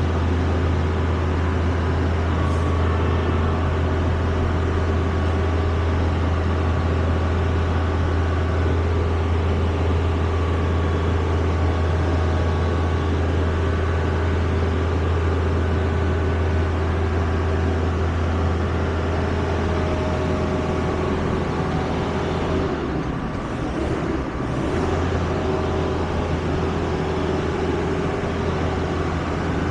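A vehicle's engine running steadily with a strong low hum, which dips and changes briefly near the end before settling again.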